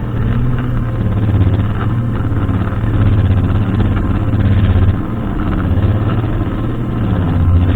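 Brushcutter engine running steadily with a low hum, its loudness swelling and easing slightly every second or two as it works.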